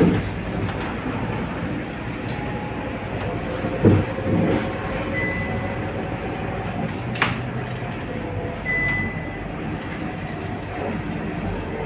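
Scania K230UB city bus with its five-cylinder diesel running on the move, a steady engine and road rumble with a few sharp knocks and rattles. Two short high beeps sound about five and nine seconds in.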